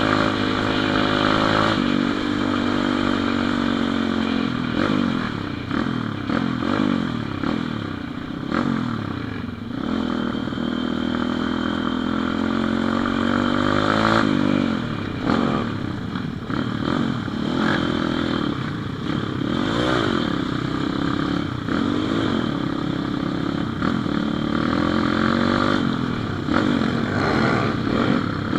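Pit bike's small single-cylinder engine being ridden hard, its pitch climbing and dropping again and again as the throttle is opened and closed.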